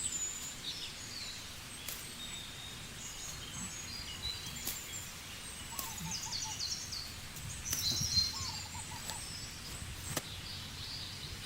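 Small birds chirping and twittering in short high calls, scattered throughout, with a few faint sharp clicks.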